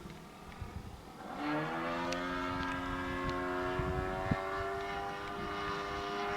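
Radio-control model airplane's motor throttling up about a second and a half in, its pitch rising quickly and then holding at a steady high drone.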